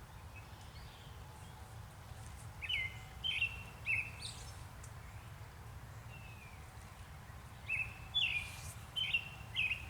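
A bird singing: two phrases of short, quick whistled notes, each repeated three or four times, with a single falling note between them, over a steady low rumble.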